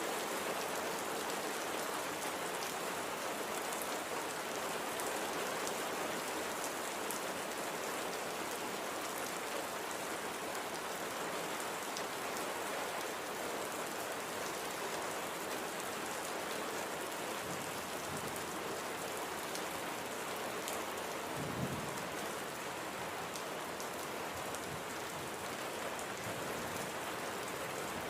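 Steady light rain falling, an even hiss with scattered drop ticks, and one brief low thump about three quarters of the way through.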